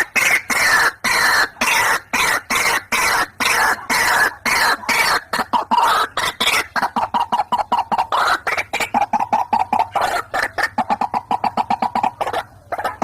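White-breasted waterhen (ruak-ruak) calls, a fast run of harsh repeated notes several to a second. The notes drop in pitch in phrases at first, then settle into a steadier, even series, with a short break near the end.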